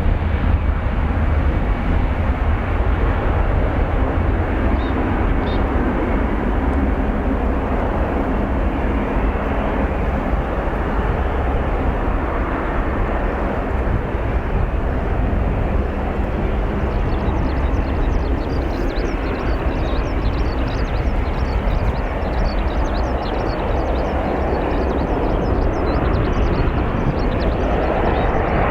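Airbus A320-214's CFM56 jet engines at takeoff power: a steady, dense roar with a strong deep rumble that holds without a break.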